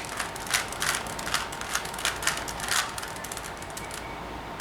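Layers of a plastic 3x3 Rubik's cube being twisted, a quick irregular run of clicks that stops about three seconds in.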